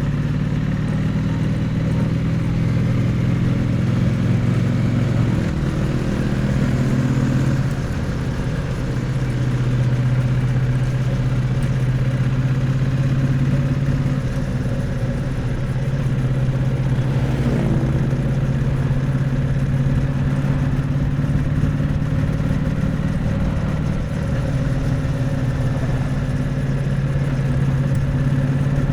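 Triumph Bonneville T100's parallel-twin engine and exhaust, picked up close to the exhaust while riding, running steadily at low revs. The engine note shifts about seven seconds in as the revs change.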